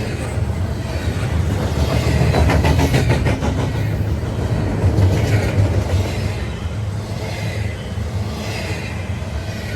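A CSX intermodal container train rolling by: a steady low rumble of freight-car wheels on the rails, with a quick run of clicks about two to three seconds in as wheels pass over rail joints.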